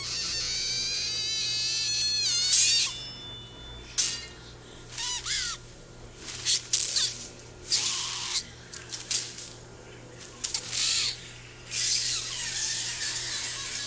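High-pitched screeching sound effects from an anime soundtrack: a gliding, many-toned screech for the first few seconds, then a string of short, separate shrieking bursts.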